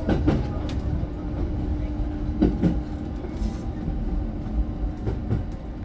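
Train running, heard from inside the carriage: a steady low rumble with a faint constant hum and a few knocks from the wheels on the rails.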